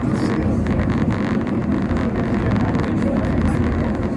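Steady rumble of a cable-hauled funicular carriage running up its track, heard from on board.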